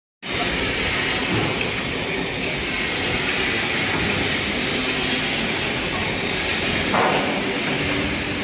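Steady, loud mechanical running noise, like a large vehicle's engine, with a short louder burst about seven seconds in.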